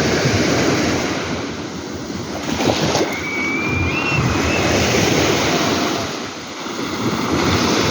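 Sea waves breaking on the shore, the surf swelling as each wave rushes in and easing as it draws back, with dips about two seconds in and again near the end.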